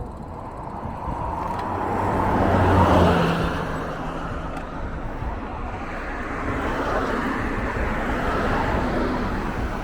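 Road traffic: a vehicle passes, loudest about three seconds in, and a second one swells and fades later.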